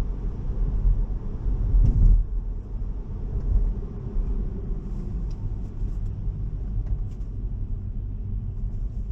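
Steady low rumble of tyre and road noise inside a Tesla's cabin on a wet road, with a brief swell about two seconds in.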